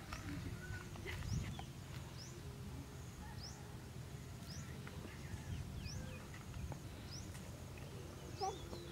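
Outdoor ambience: a small bird repeats a short, high, rising chirp about once a second over a low steady background rumble.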